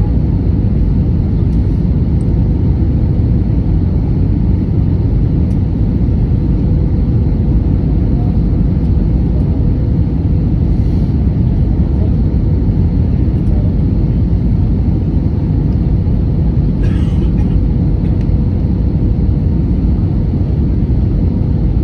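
Steady cabin noise of an airliner in flight or on the runway: an even low rumble from the engines and airflow, with a steady hum running through it.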